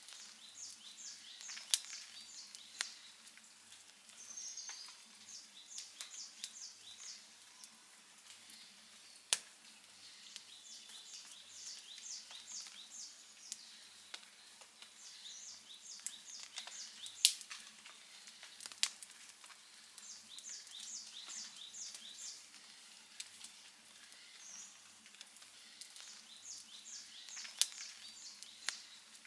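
Outdoor wood campfire crackling, with about six sharp pops; the loudest comes a little past the middle. A high call repeats about every five seconds, a short swoop followed by a quick run of notes.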